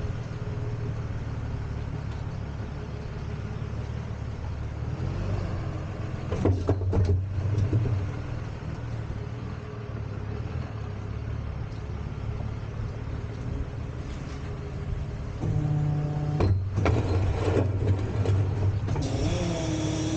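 Tow truck's engine running steadily, with a few sharp clunks about a third of the way in and another cluster near the end.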